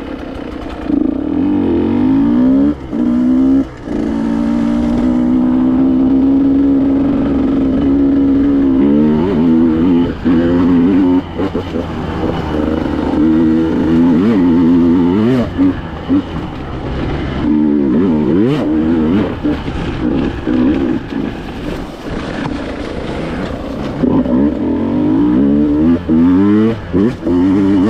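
KTM EXC 150 two-stroke enduro engine under way off-road, its pitch rising and falling as the throttle is opened and closed, with short throttle cuts a few seconds in.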